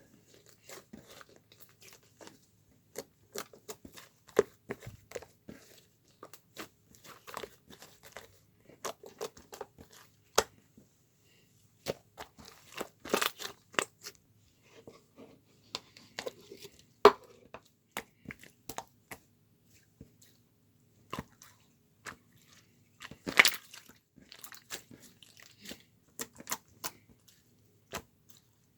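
Irregular crunching and crinkling with sharp clicks and taps, as of small objects being handled, a few louder cracks among them.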